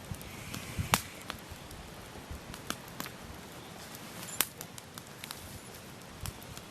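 Wood campfire crackling: burning logs give irregular sharp pops and snaps over a soft steady hiss, the loudest pops about a second in and just past the middle.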